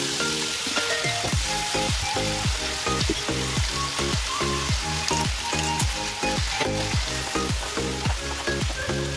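Chicken strips sizzling as they fry in oil in a nonstick pan, stirred with a wooden spatula. Background music with a steady beat plays under it.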